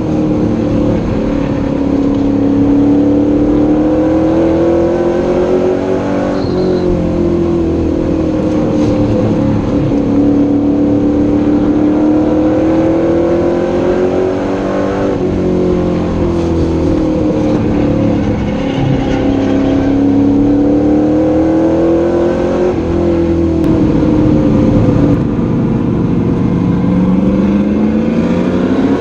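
Race truck engine heard from inside the cab, running hard at speed; its pitch drops and then climbs again about every eight seconds, as the driver eases off for each turn and accelerates out.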